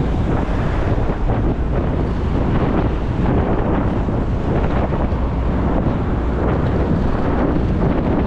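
Wind rushing and buffeting over the microphone of a moving motorcycle, with the bike's running and road noise underneath, steady throughout.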